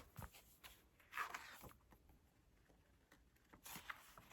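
Near silence in a small room, with a few faint, brief rustles and clicks.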